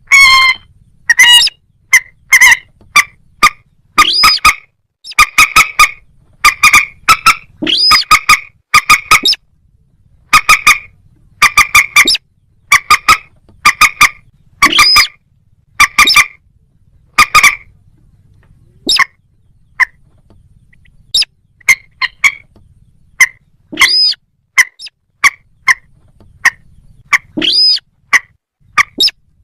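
Recorded calls of a rail (the moorhen and crake family): short, sharp, pitched notes repeated in quick runs with brief pauses, a few louder notes rising and falling in pitch, and a sparser, fainter stretch past the middle.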